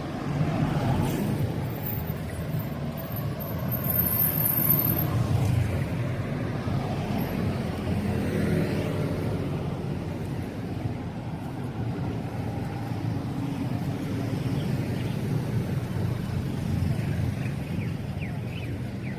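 Road traffic going by, a steady low rumble of vehicle engines and tyres, swelling a little at times as vehicles pass.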